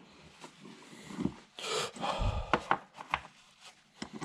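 Engine parts being handled on a workbench: a short scrape about a second and a half in, a low thump, and several sharp knocks and clicks.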